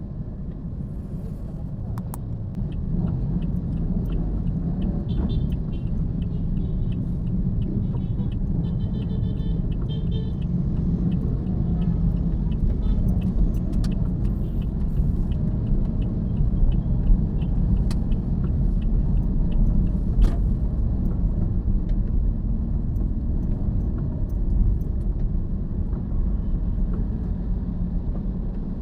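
A car driving: a steady low rumble of engine and road noise, with light rattling ticks for several seconds early in the stretch.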